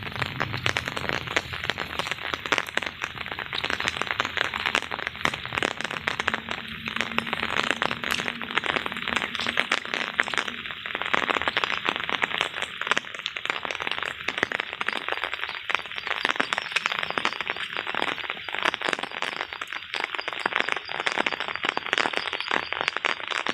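Heavy rain falling, a dense, even patter of countless small drop impacts with no let-up.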